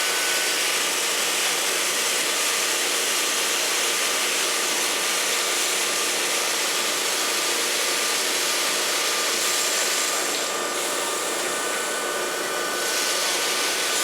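Steady rushing noise of peanut-mill machinery with a faint steady whine, as dried peanuts are dumped into a truck.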